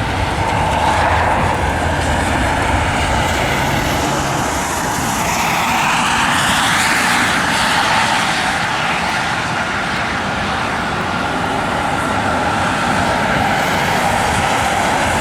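Jet aircraft engines passing close by, a steady loud rush with a whine that rises and then falls in pitch about halfway through.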